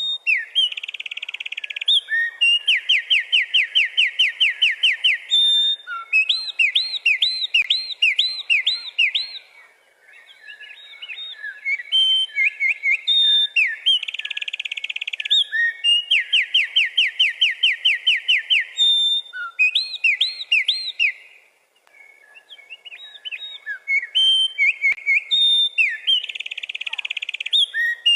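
A wren singing its loud, bubbly territorial song: long strophes of rapid trills and repeated notes, three songs in a row with brief pauses between them.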